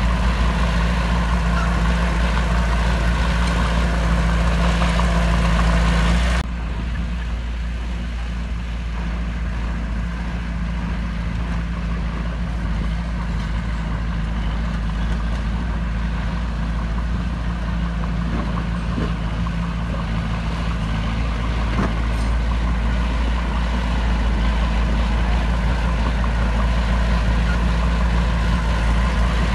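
Heavy diesel engine of earthmoving machinery running steadily. About six seconds in the sound cuts abruptly to a quieter engine, which slowly grows louder.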